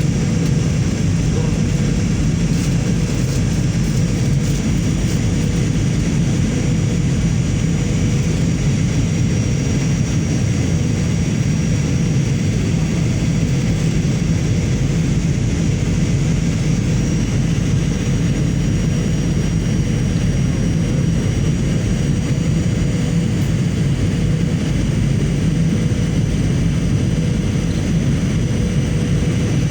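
Airliner cabin noise in flight: a steady, loud low rumble of engines and airflow, with a faint steady whine over it.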